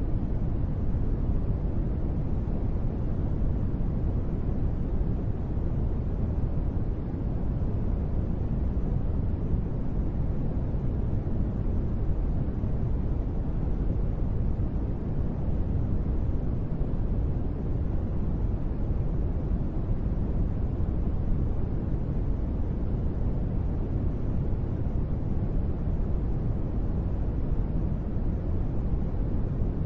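Steady, unbroken white-noise ambience sold as gentle rain, deep and rumbling, with most of its weight low and little hiss up top, and no separate drops or thunder standing out.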